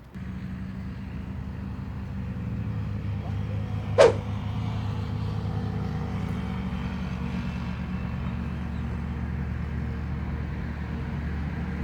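An engine running steadily, with one sharp knock about four seconds in.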